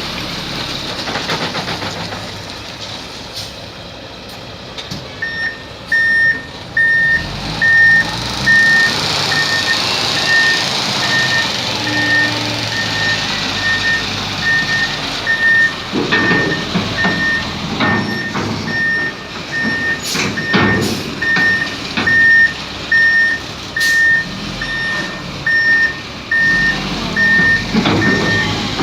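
A heavy truck's reverse alarm beeping steadily, a little faster than once a second, over the rumble of its engine, starting about five seconds in. From about halfway on, loud knocks and clatter break in repeatedly.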